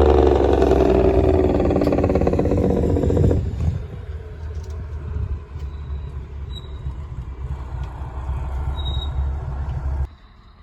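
A truck engine running loud with its pitch falling for the first three seconds or so, then running more quietly and steadily until the sound cuts off abruptly near the end.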